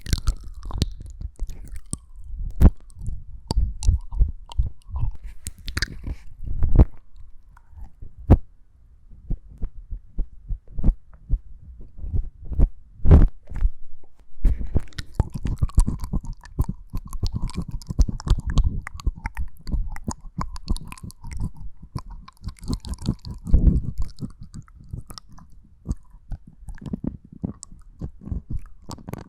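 Close-miked ASMR mouth sounds: irregular wet clicks, lip smacks and tongue sounds, with soft low thumps, growing denser about halfway through.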